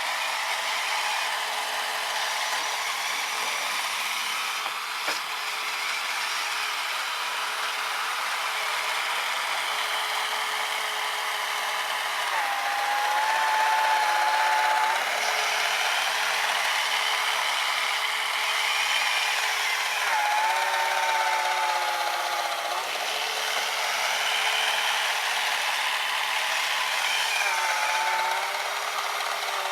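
Electric motor whine of a radio-controlled snowblower and truck, with the blower's brushed 550 motor driving the auger through snow. A steady hum sits under a gritty hiss. A higher whine rises and holds for a few seconds three times, near the middle, about two-thirds in and near the end.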